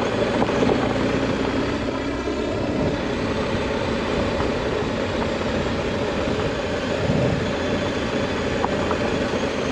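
BMW GS Adventure motorcycle under way, its engine running steadily beneath continuous wind and road noise.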